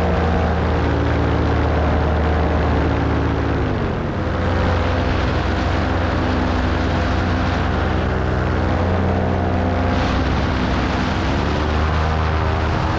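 Paramotor engine and propeller running. It is throttled back, its pitch sliding down about three and a half seconds in, then opened up again, its pitch rising about eleven seconds in.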